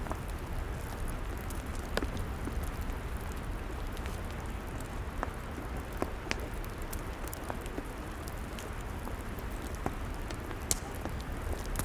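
Log fire crackling: a steady hiss and low rumble with scattered sharp pops and snaps, the loudest about six seconds in and again near the end.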